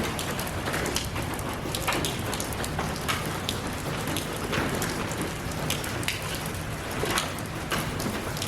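Steady rain falling, with many separate drops tapping close by at irregular intervals over a continuous hiss.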